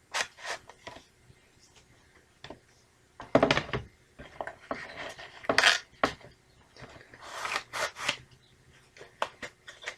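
A VHS tape, its case and packing being handled by hand: irregular plastic clicks and knocks with a few short bouts of rubbing and rustling.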